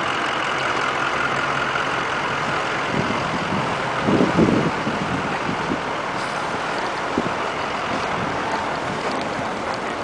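Steady rushing noise of passing road traffic, with a brief louder low rumble about four seconds in.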